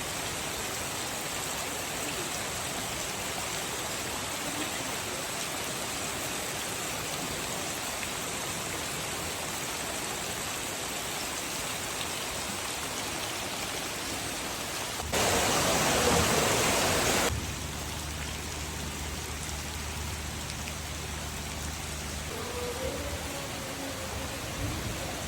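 Steady rain falling, an even hiss of drops. About fifteen seconds in, a louder rush of noise lasts about two seconds, followed by a low steady hum for several seconds.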